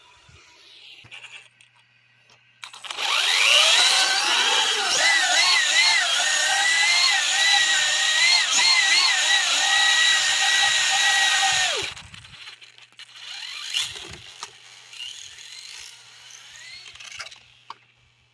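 Traxxas Stampede RC truck's electric motor and gear drive whining at full throttle. The high whine rises in pitch, wavers for about nine seconds and drops away suddenly, followed by a few shorter, quieter revs.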